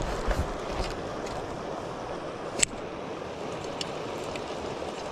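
Stream water running steadily over a shallow rocky bed. There are a few low bumps in the first second and one sharp click about two and a half seconds in.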